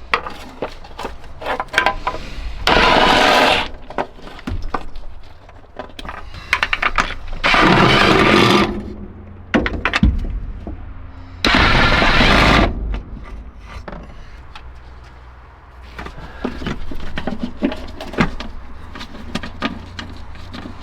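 Three loud hissing bursts of a pressurized spray, each about a second long, about 3, 8 and 12 seconds in, between clicks, knocks and scraping from hand work on the valve cover area.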